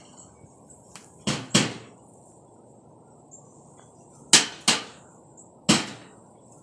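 Sharp bangs of something hard being struck, five in all: two quick pairs, then a single bang. A steady high insect chirr runs underneath.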